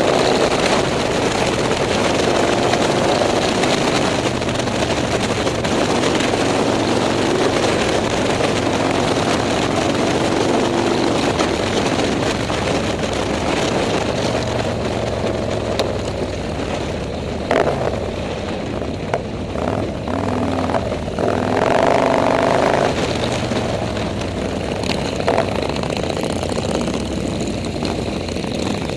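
Motorcycle engines running steadily, their pitch shifting as the bikes ride, with a brief sharp knock partway through.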